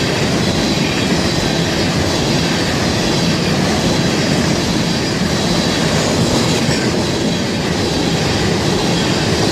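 Freight cars of a Florida East Coast Railway train rolling past close by: a loud, steady rumble and clatter of steel wheels on rail.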